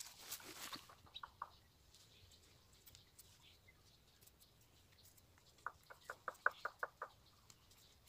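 A bird calling: a quick, even run of about ten short notes, about seven a second, in the second half. Before it, soft rustling and a couple of light taps from sticks being handled.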